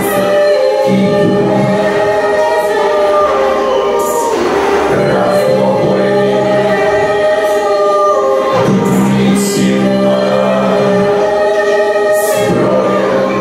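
Music: several sustained voices singing a choir-like chord over held low tones, with a few brief high percussion strikes.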